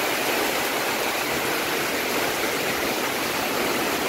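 Heavy rain pouring down in strong wind: a steady, dense hiss.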